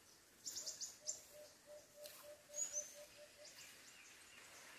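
Birds calling faintly: a run of a dozen or so short, low, even notes at about four a second, with a few high chirps near the start and two short, falling high whistles in the middle.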